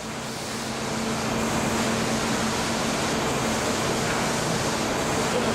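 Sawmill saw-line machinery running: a dense, steady mechanical noise with a low hum, swelling over the first second or so and then holding steady.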